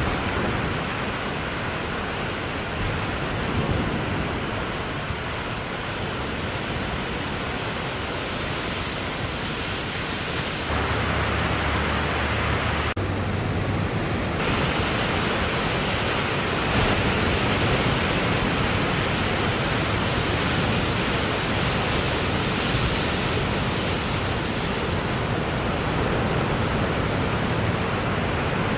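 Steady noise of ocean surf breaking along the shore, with an abrupt shift in level about eleven seconds in and again a couple of seconds later.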